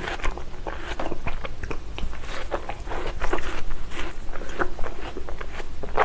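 Close-up chewing of a mouthful of raw watermelon: a steady run of small wet crunches and mouth clicks as the juicy flesh is worked.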